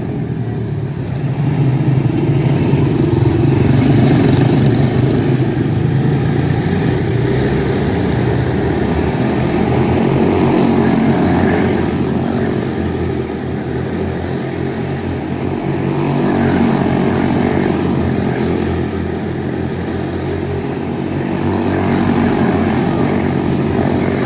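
Small single-cylinder quarter midget race car engines running hard on track. The sound swells and eases about every six seconds, as with cars circling a small oval.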